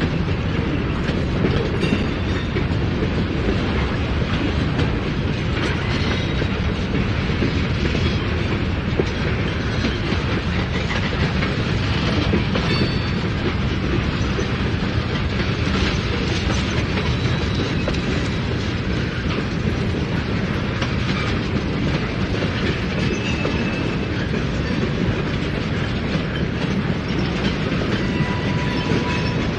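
Freight cars (boxcars, a gondola and tank cars) rolling past slowly: a steady rumble with wheels clattering over rail joints, and now and then a brief faint squeal from the wheels.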